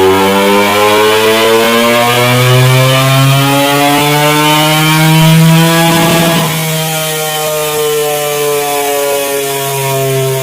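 Honda CBR250RR parallel-twin engine pulling hard on a dyno, its pitch rising steadily for about six seconds during a wide-open-throttle run. Then the throttle is shut with a short rough burst from the exhaust, and the revs wind slowly down.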